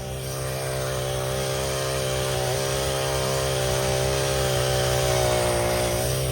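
Engine running at a steady speed, a constant drone that swells slightly through the middle and dips briefly near the end.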